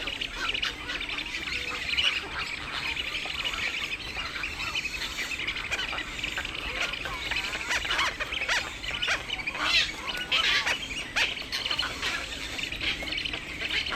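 Many birds calling at once in a dense, continuous chatter of short calls, with louder squawks scattered through it, most of them a little after the middle.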